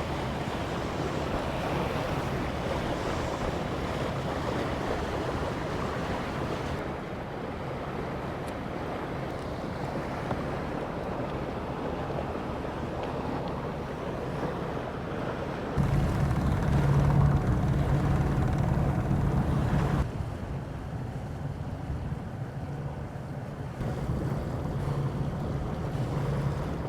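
Sound aboard a sailing yacht under way: a steady rush of wind and water with a low, even hum from the boat's engine beneath. It gets louder and the hum stronger for a few seconds about 16 s in, then drops back suddenly.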